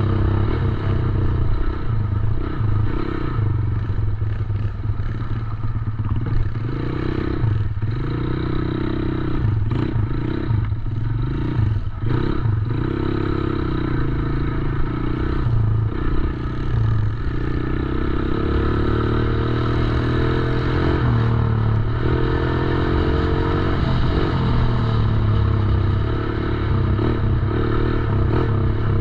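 Small 110cc dirt bike engine running throughout, its pitch rising and falling again and again as the throttle is opened and closed while the bike is ridden.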